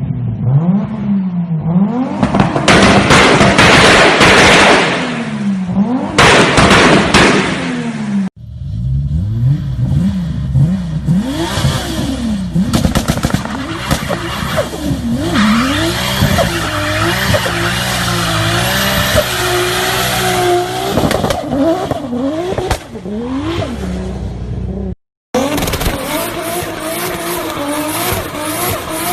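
Toyota Supra MK4's turbocharged 2JZ straight-six revving hard, rising and falling again and again, with tyres squealing in burnouts and drifts. The sound cuts off abruptly twice as new clips begin.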